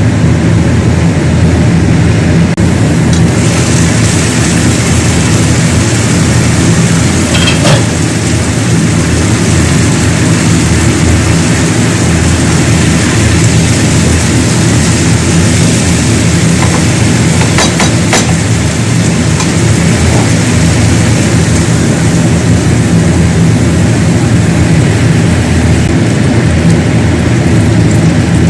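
Loud, steady machine hum, like a motor running without a break, with a couple of faint ticks.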